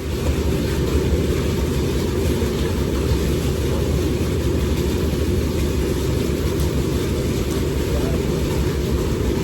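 Boat's outboard motor running steadily under way, starting abruptly at the outset.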